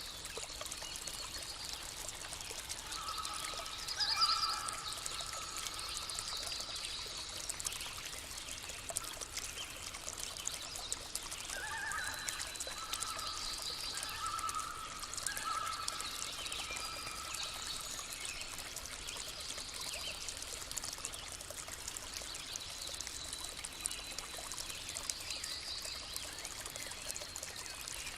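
Water trickling steadily, like a small stream, with birds calling over it: short high calls throughout and lower whistled calls through the first half.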